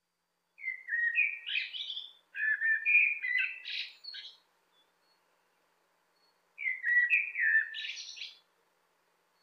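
Common blackbird singing: three warbling phrases, each lasting about one and a half to two seconds and climbing into a higher, squeakier ending. The last phrase comes after a pause of about two seconds.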